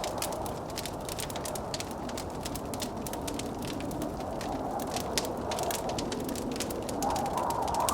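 Wood fire crackling in a fireplace, with frequent sharp pops and snaps, over the steady rush of blizzard wind, which grows louder near the end.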